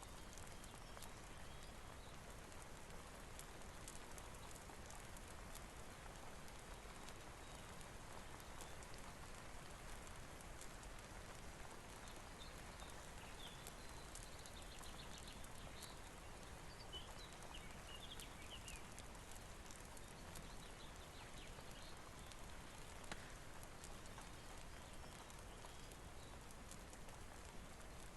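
Soft, steady rain with a fireplace crackling, scattered fine ticks and a few small clusters of crackles through the even hiss.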